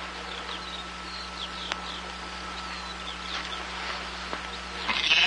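Birds chirping in short, scattered rising and falling chirps over the steady hiss and hum of an old film soundtrack. In the last half second a loud, held bleat-like call cuts in.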